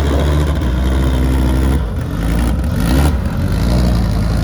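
Car engine idling steadily, with a short rise in revs about three seconds in before it settles back.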